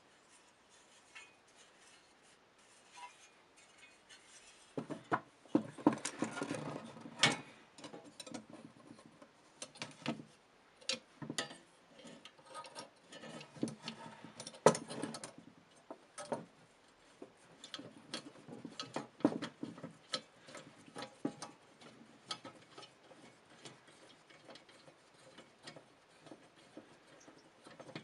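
Hands taking apart an old vintage scale: irregular clicks, taps and light metal clinks of small parts and tools, with some scraping. Sparse at first, busiest from about five seconds in to around sixteen seconds, then scattered again.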